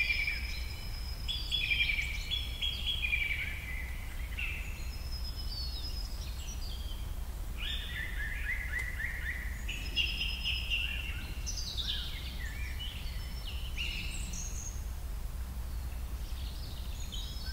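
Birds chirping and singing in quick, varied calls, over a steady low hum.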